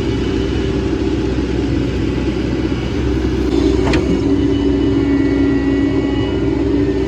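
Hydraulic excavator's diesel engine running steadily as it works, with one short sharp click about four seconds in, after which the engine note shifts and gets a little louder.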